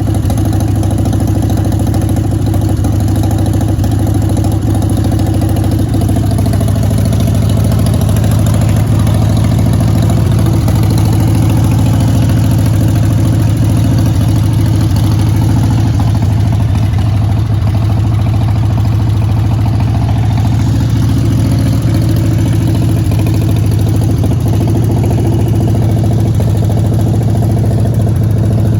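2001 Harley-Davidson Dyna Super Glide's Twin Cam 88 V-twin engine idling steadily.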